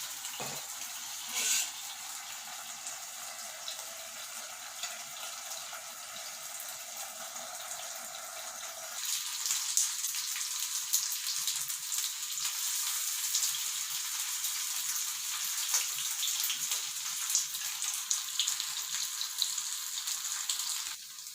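Chicken kebab pieces sizzling in oil in a covered frying pan, a steady hiss. About nine seconds in, the sizzle turns brighter, with many small crackling pops.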